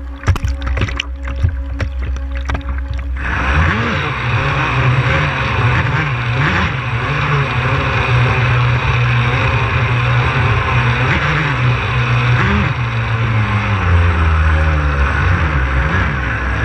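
A few sharp knocks, then from about three seconds in a Genesis 72 twin-motor electric RC catamaran running on the water: a steady rush of water noise and motor sound whose pitch wavers up and down.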